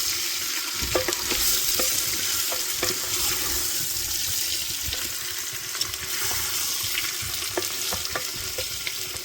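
Food sizzling steadily as it fries in hot oil, with a stirring utensil knocking and scraping against the pot now and then.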